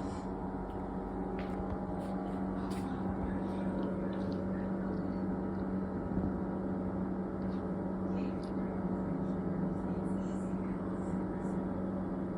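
Refrigerator giving off a steady electrical hum, a strong low tone with many overtones, with faint scattered ticks over it. The owner suspects hurricane debris damaged the wiring.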